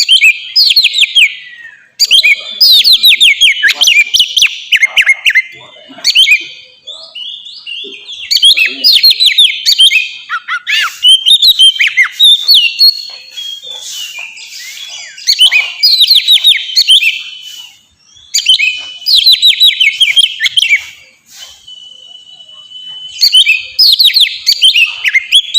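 Oriental magpie-robin (kacer) singing in full, open song: loud bouts of rapid, varied whistled phrases of fast down-slurred notes and trills, a few seconds each with short pauses between, and one held steady whistle near the end.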